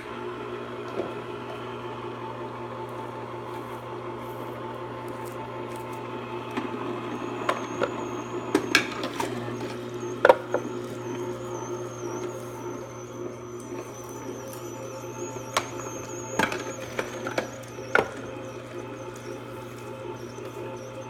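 Electric juicer juicing lemons: its motor switches on at once and runs steadily with a low hum. A thin, wavering high whine joins about a third of the way in, and a few sharp knocks come through the middle.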